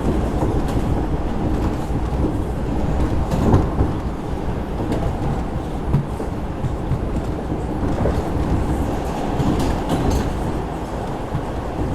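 R142 subway car running between stations, heard from inside the car: a steady rumble of wheels on rail, with a few sharp clicks over the rail joints.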